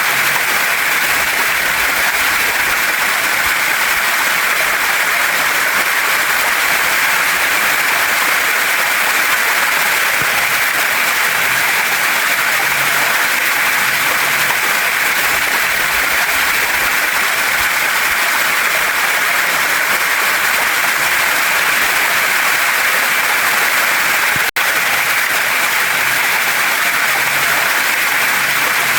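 Steady rushing of water from a waterfall and stream pouring over rocks, an even hiss with no change in strength. The sound drops out for an instant about three-quarters of the way through.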